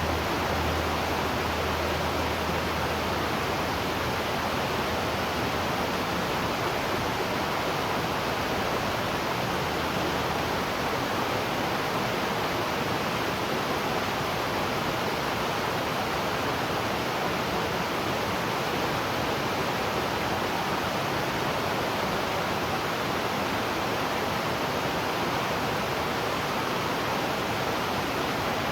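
Waterfall: a steady, even rush of falling water. A low hum underneath fades out in the first few seconds.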